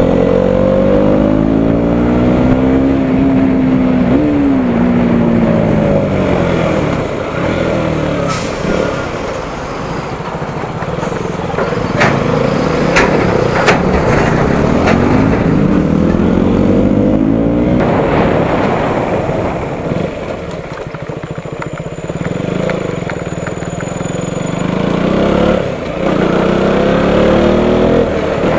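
Single-cylinder motorcycle engine under way, its pitch rising as it accelerates and dropping sharply at gear changes several times, over steady road noise. A few sharp clicks are heard in the middle.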